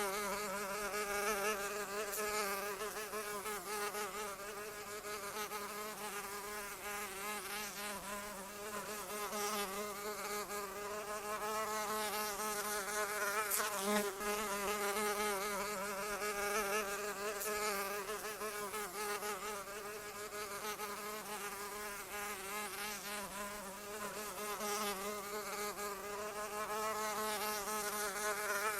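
A flying insect's buzz from its beating wings, continuous with a pitch that wavers slightly up and down.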